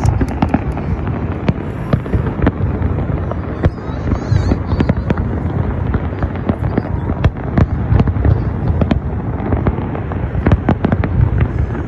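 Many fireworks going off at once: a dense, unbroken crackle of sharp cracks and bangs over a constant low rumble.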